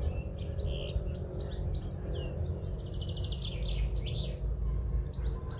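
Several songbirds chirping and singing, with quick rising and falling whistles and a rapid trill about three seconds in, over a steady low rumble.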